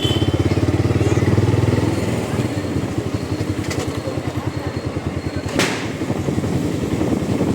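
Motorcycle engine and exhaust running under way, the exhaust pulses louder for the first two seconds under throttle, then easing off. A single sharp click sounds about five and a half seconds in.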